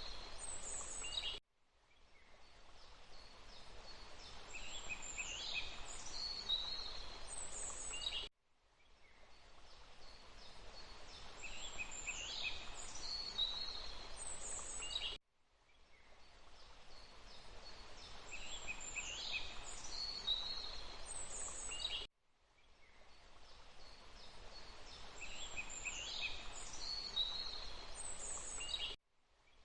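Forest ambience of rushing water with high chirping bird calls, a short loop that drops to silence and fades back in about every seven seconds, the same calls recurring each time.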